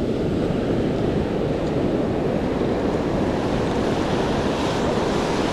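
Ocean surf washing onto the beach: a steady, even rush with no breaks.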